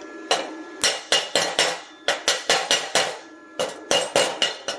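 Hammer striking a freshly stick-welded steel coupon, about seventeen sharp metallic blows in quick runs of three to six, each one ringing briefly.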